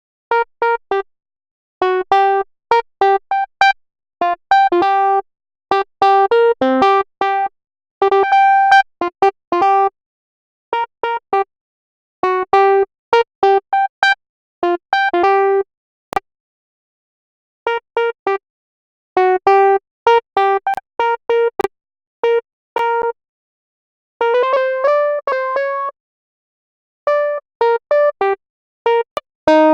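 Short electric-piano-like synth notes in a mid register, played in quick stop-start clusters with dead silence between them. A few single clicks fall in the middle stretch.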